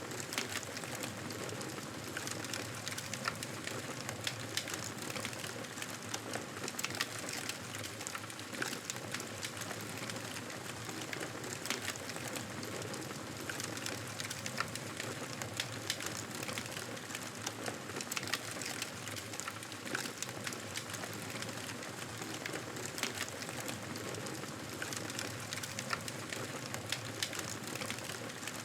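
Wood fire crackling: a steady hiss with frequent small pops and snaps throughout.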